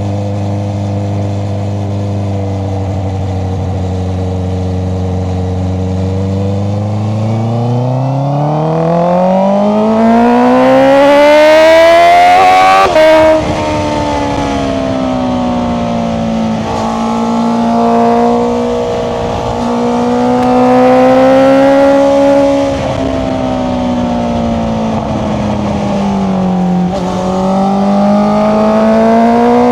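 Honda CBR650R's inline-four engine through an Akrapovic exhaust: it runs steady, then accelerates hard from about seven seconds in, its pitch climbing until a sudden upshift drop near the middle. After that it holds mid revs with a few brief dips and climbs again near the end.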